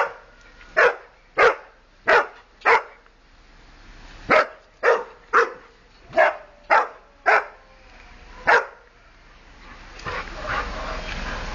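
Dog barking excitedly in short, sharp barks, about a dozen in two runs with a short pause between them, the sign of a dog worked up by another dog passing.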